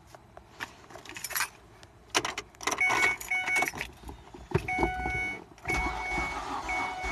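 Keys jangling at a 2006 Ford Escape's ignition, then the dashboard warning chime beeping over and over. About four seconds in, the starter begins cranking the engine steadily and the engine does not catch, with the chime still going. This is the Escape's crank-but-no-start fault.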